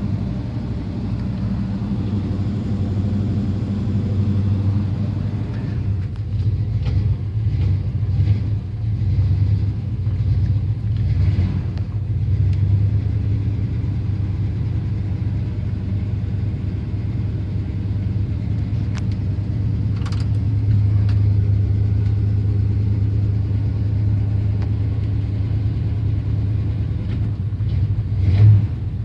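1984 Chevrolet C10's 305 small-block V8 running at a steady idle, about a minute after a cold start, having sat unstarted for a couple of months. A few faint clicks come over it in the middle, and near the end the engine rises briefly twice, as if blipped.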